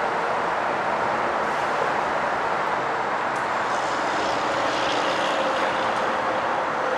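Metro-North electric multiple-unit commuter train approaching the platform: a steady rushing rumble, with a faint whine joining about halfway through.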